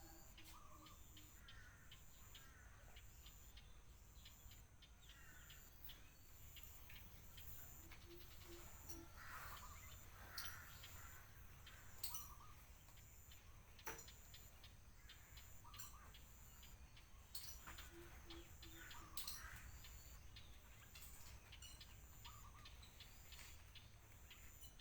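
Faint birds chirping, with a short run of low, evenly spaced hooting notes heard three times, and a few faint clicks over a steady low hum.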